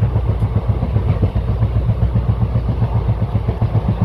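Passenger train running along the track: a loud, steady rumble with a fast rhythmic pulsing.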